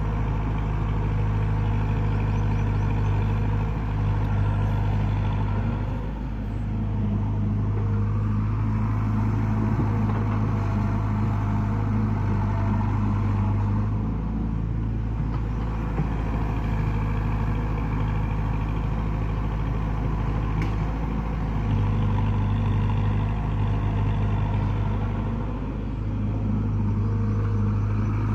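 Heavy diesel engine running steadily at high revs, with a strong low hum. Its level dips briefly a few times.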